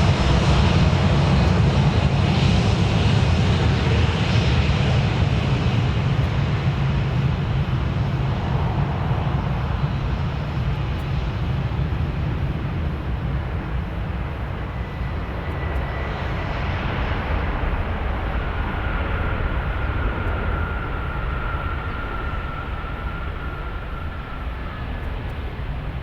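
Fixed-wing aircraft engine noise, loud at first and slowly fading. A faint steady whine runs through the second half.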